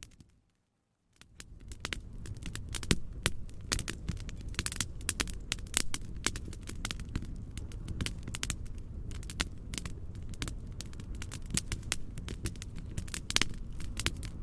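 Fireplace crackling with frequent sharp pops over a steady low rumbling noise. The sound cuts out completely just after the start and fades back in about a second later.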